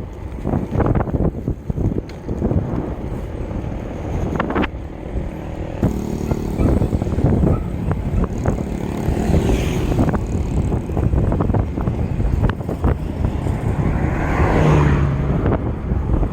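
Wind rumbling on the microphone of a moving bicycle, with a motor vehicle's engine humming past from about a third of the way in.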